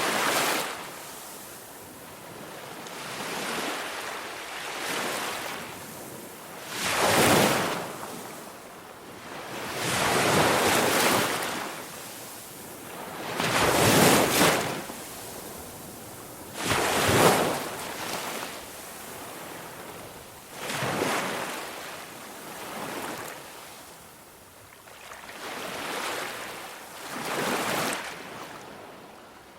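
Surf washing in and out, one smooth swell of rushing water after another every two to four seconds.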